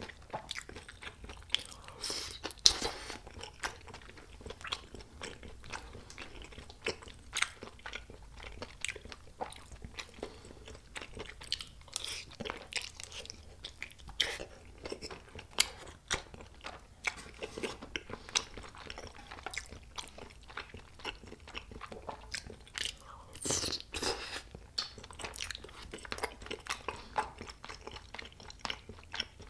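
Close-miked eating sounds: chewing and biting of spicy tteokbokki rice cakes with melted cheese, a steady stream of wet smacks and sharp mouth clicks, with a louder burst about two and a half seconds in and another near the end.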